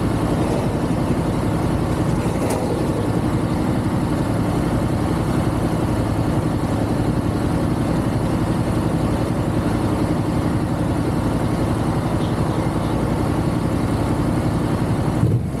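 Motorcycle engine running at a steady pace while riding, with a brief abrupt break just before the end.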